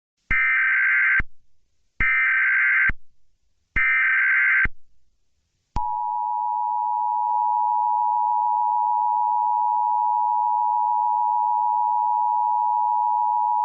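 Emergency Alert System tones: three short bursts of the digital SAME header screech, about a second each, then the steady two-tone attention signal from about six seconds in. The tones announce the start of an emergency alert broadcast.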